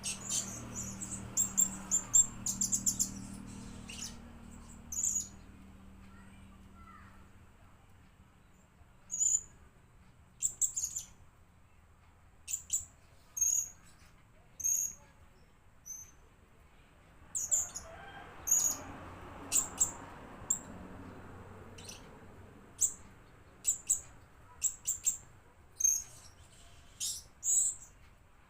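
Blue-crowned hanging parrot (serindit) calling: short, very high-pitched chirps, some single and some in quick runs, at irregular intervals.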